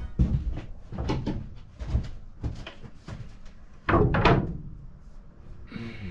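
A string of knocks and clunks, a few each second, with the loudest cluster of heavy thuds about four seconds in.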